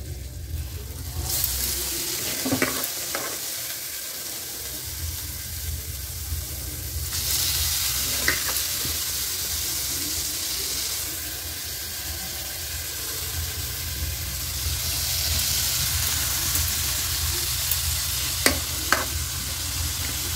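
Washed rice and dal sizzling in hot spiced oil in a metal kadai as they are added, with a few sharp knocks of metal on the pan. The sizzle starts about a second in and swells louder at times.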